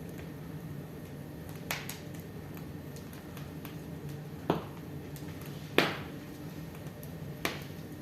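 Wood fire crackling in a fireplace: a steady low hiss under four sharp pops, the loudest about six seconds in.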